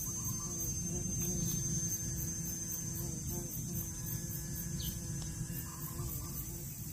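Steady hum with a continuous high whine and very high, insect-like chirping pulsing a few times a second.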